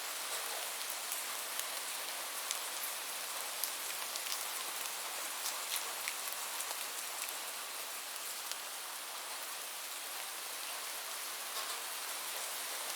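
Steady rain falling, a continuous hiss with individual drops ticking sharply here and there.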